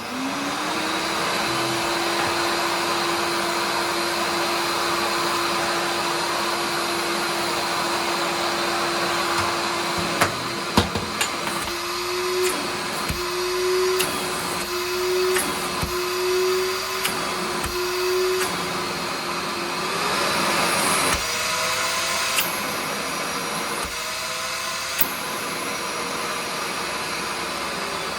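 TACKLIFE 6-gallon wet/dry shop vacuum motor spinning up and running steadily with a whine over the rush of air. About halfway through its pitch rises and falls six times, about once a second and a half, then it settles at a higher pitch; a couple of sharp clicks sound just before.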